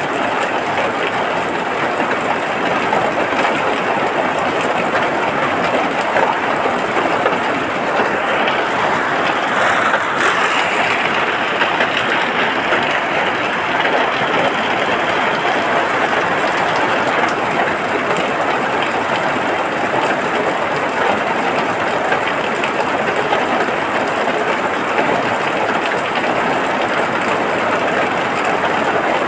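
Steady rain, an even hiss that swells a little for a few seconds about ten seconds in.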